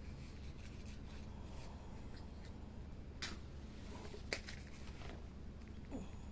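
Wood campfire crackling, with small scattered clicks and two sharp pops about three and four seconds in, over a steady low hum.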